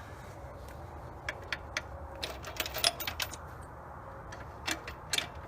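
Irregular sharp clicks and taps from tools or hard parts being handled while the engine is worked into place: a quick run of a dozen or so about a second in, then a few more near the end.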